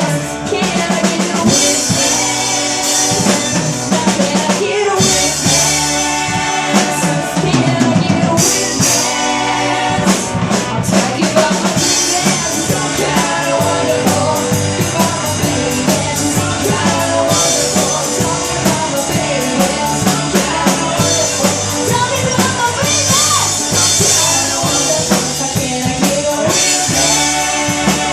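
Live rock band playing a passage without lyrics, led by a drum kit beat.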